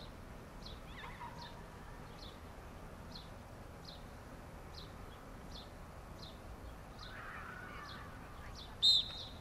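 A small bird chirping over and over, short high chirps about three every two seconds. Near the end comes one short, sharp blast of a referee's whistle, the loudest sound.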